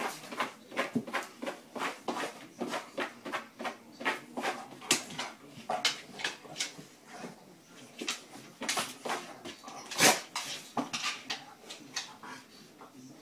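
A dog making a run of short, sharp sounds, several a second, with the loudest about ten seconds in.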